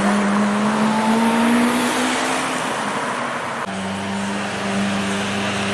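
Lamborghini supercar engine running with its note rising slightly. About three and a half seconds in, the sound changes abruptly to a steady, lower engine note.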